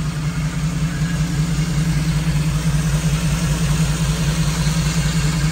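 A 5.3-litre LS V8 swapped into an old pickup, idling steadily with an even low pulse.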